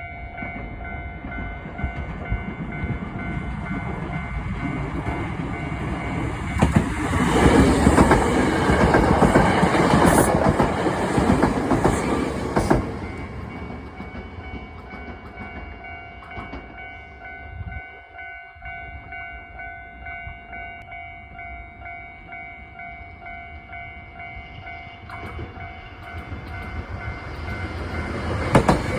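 A Japanese level-crossing warning bell rings steadily while a Nose Electric Railway electric train passes over the crossing, its wheels clattering, loudest from about 7 to 13 seconds in. Near the end the rumble rises again as a second train approaches.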